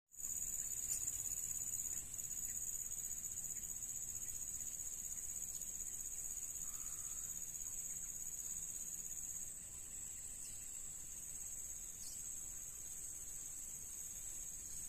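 Insects trilling in one steady, unbroken high-pitched drone, easing off slightly after about nine and a half seconds, with a few faint short chirps over it.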